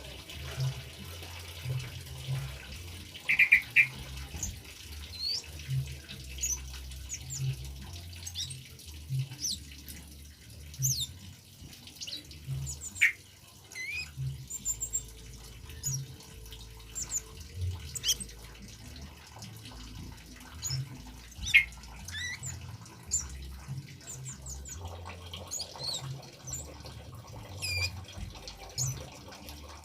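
Kemade bird calling in many short, quick chirps and whistled glides at irregular intervals, over a low, uneven burbling of trickling water.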